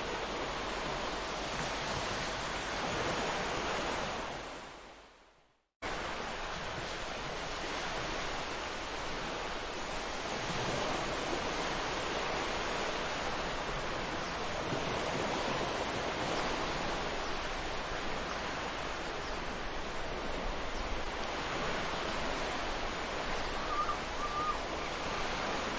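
Sea surf washing onto the beach in a steady, continuous rush of waves. About four seconds in it fades away to silence and then cuts abruptly back in, like an edit join. A brief faint wavering tone sounds near the end.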